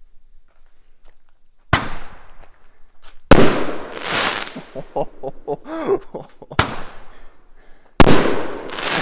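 An extra-large, heavy Roman candle firing. After a quiet start come four loud bangs, the first under two seconds in and the last about a second before the end, with sputtering and crackle between them. Its shots break with reports as big as a 500 gram cake's.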